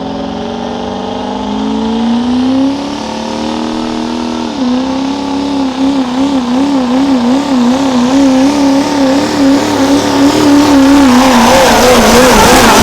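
Chevrolet Duramax turbo-diesel V8 pulling truck under full load on a sled pull. The engine climbs in pitch, drops sharply about four and a half seconds in, then wavers quickly up and down as it runs hard, growing louder toward the end.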